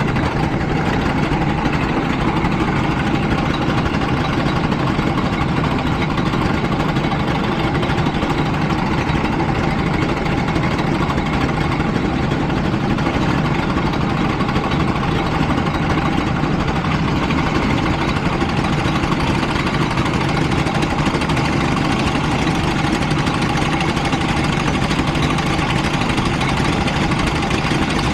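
Go-kart engine running at a steady idle, with no revving.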